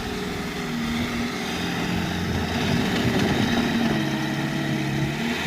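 Heavy snow-moving equipment's engine running, its pitch shifting up and down several times as it works.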